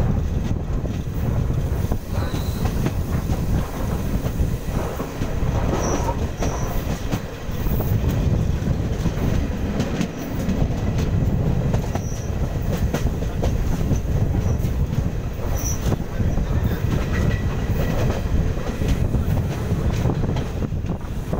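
Indian Railways passenger train running at speed, heard from an open side of a coach: a steady rumble of wheels on rail with clicking over the rail joints and a few short, high wheel squeaks.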